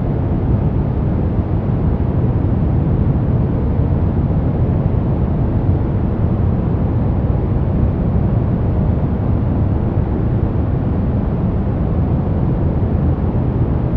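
Steady, unchanging sleep-aid noise sold as white noise, weighted heavily toward the low end so that it sounds like a deep, even hiss rather than a bright one.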